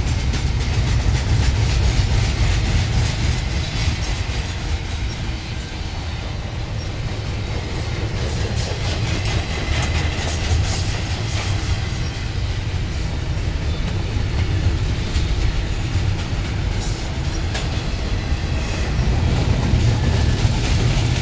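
Norfolk Southern double-stack intermodal container train rattling past: a steady low rumble of the well cars, with their wheels clicking on the rails throughout.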